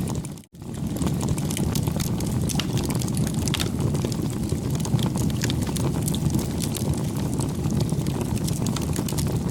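Campfire crackling: a dense run of small sharp pops and ticks over a steady low rumble. The sound drops out for a moment about half a second in.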